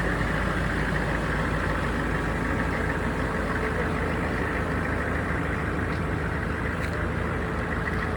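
Humvee diesel V8 engine idling steadily.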